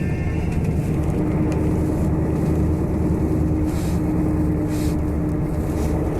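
Tour coach driving along the road, heard from inside: a steady engine and road rumble with a held low hum.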